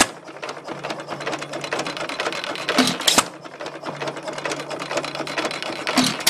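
1922 Associated Chore Boy 1 3/4 hp single-cylinder hit-and-miss engine running: a fast clatter of quick mechanical clicks, with a louder firing stroke about every three seconds as it fires and then coasts.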